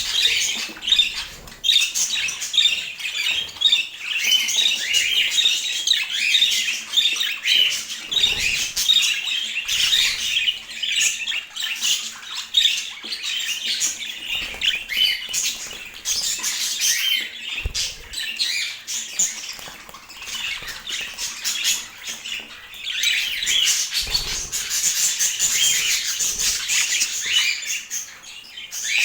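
Budgerigars chattering and chirping continuously in quick, busy twitters, with scattered small clicks.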